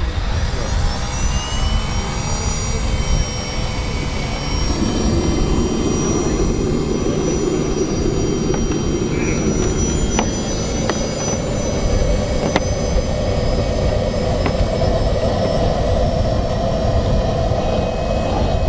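Frank FT220 model jet turbine of a giant-scale RC Mirage 2000 running with a high whine over a steady roar; the whine rises slightly in pitch for the first few seconds, then holds, and the roar grows fuller about five seconds in.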